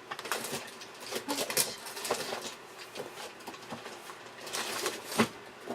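Sheets of cardstock being handled and shuffled on a table: scattered rustles, slides and light taps, with one sharp knock about five seconds in.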